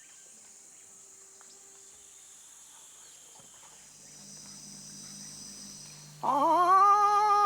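Faint steady insect chorus in rainforest. About six seconds in, a loud man's voice call rises sharply and then holds on a long wavering note, an imitated animal call.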